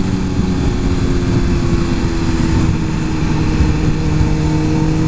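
Suzuki GSX-R 1000 superbike's inline-four engine running at fairly steady revs under gentle throttle while riding, with heavy wind rush on the microphone.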